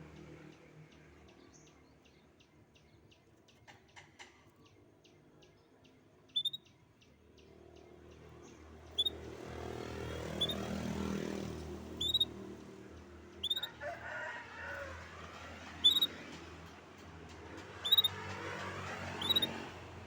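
Songbird chirping: a faint rapid series of thin ticking notes at first, then a short, sharp rising chirp repeated about every one and a half to two seconds, over a low background noise that swells in the middle.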